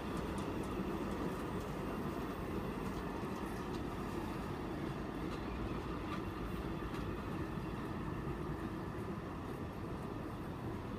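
Steady rolling rumble of a long engineering train's track-machine vehicles passing close by, wheels running on the rails, with faint ticks mixed in.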